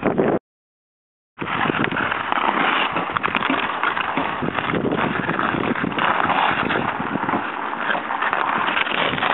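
Dense crackling and scraping of an ice crust underfoot, many small cracks and crunches running together. The sound cuts out for about a second near the start, then resumes.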